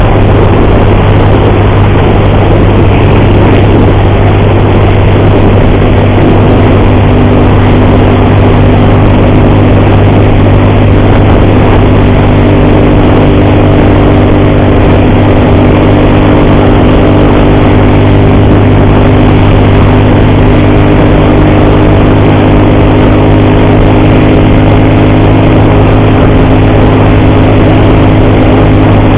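Motorcycle engine running steadily while the bike is ridden at a constant, gentle speed, under a loud, even rush of noise. About six seconds in, a steadier humming tone joins the engine note. The rider reports an ugly noise from the bike's timing (cam) chain.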